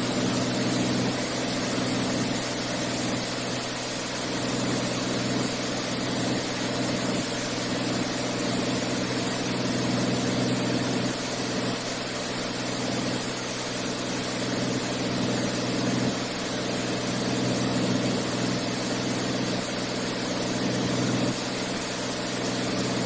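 Beechcraft A36 Bonanza's six-cylinder piston engine and propeller running steadily, heard inside the cockpit with a constant rush of airflow, on the approach to landing.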